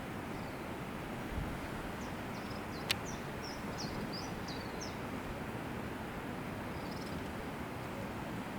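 Steady background hiss and rumble with a quick run of faint, high bird chirps about two to five seconds in and another short one near seven seconds. A single sharp click about three seconds in.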